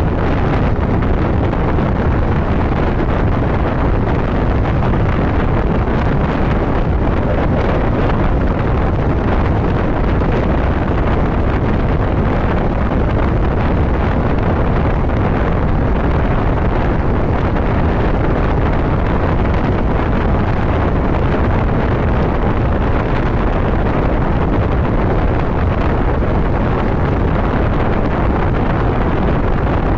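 Steady wind rushing over the microphone of a moving motorcycle, with the engine and road noise under it.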